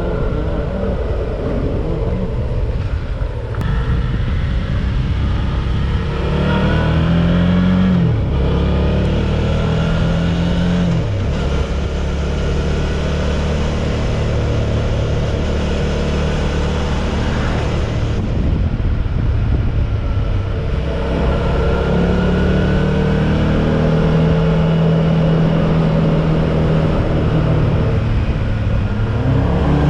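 Suzuki V-Strom 650's V-twin engine under way on the road. Its revs climb and fall with gear changes, with a drop about eleven seconds in, then settle into a steady run.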